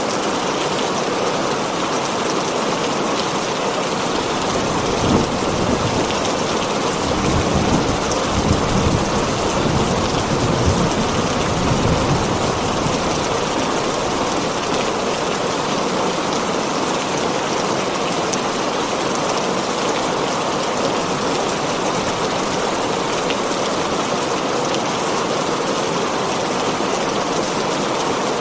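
Heavy rain falling steadily on a tin roof, with a low rumble of thunder from about five to twelve seconds in.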